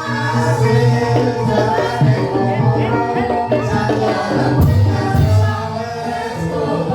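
Live Banyumas gamelan music accompanying an ebeg dance: drums and tuned metal percussion playing a steady, continuous rhythm.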